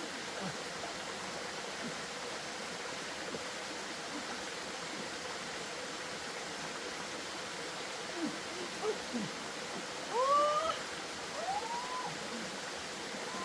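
Steady rushing of flowing water. About ten seconds in come two or three short rising calls from an animal or a voice.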